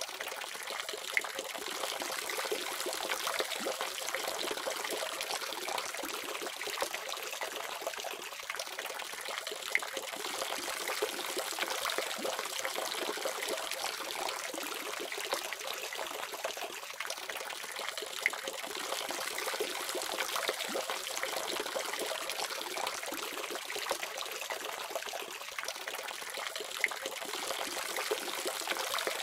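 Water faucet running steadily, a constant splashing stream with a few brief sharper splashes.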